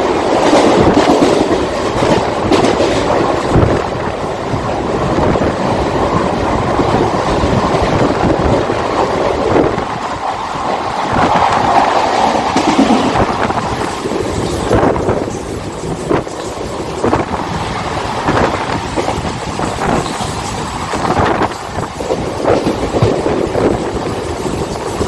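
Mumbai suburban local train running at speed: a steady rumble of wheels on track with repeated clacks as the wheels cross rail joints, the clacks standing out more in the second half.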